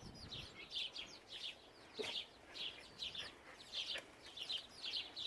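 Small birds chirping, short high chirps repeating about twice a second, with a couple of faint clicks.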